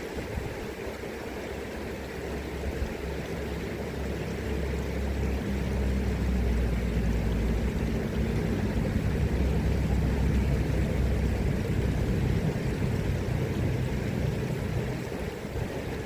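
Steady rush of river current and wind, with a low engine rumble that swells from about four seconds in and fades again near the end.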